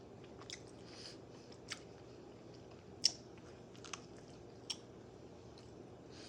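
Close-miked chewing of a sausage sandwich, with a handful of short wet mouth clicks and smacks, the loudest about three seconds in.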